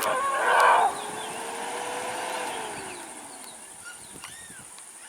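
Elephant trumpeting: a loud, harsh blast in the first second, followed by one long call that rises slightly and then falls away over about three seconds.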